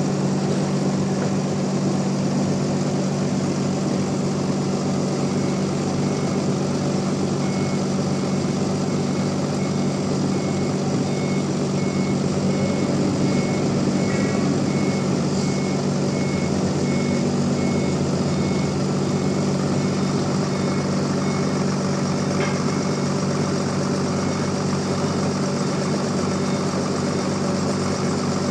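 Bandsaw mill running steadily, a constant machine hum with no change in pitch or load.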